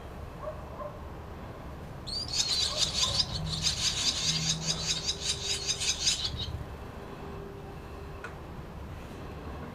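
Barn swallows calling: a burst of rapid, high, raspy twittering starts about two seconds in and lasts about four seconds. A sharp knock comes at the very end.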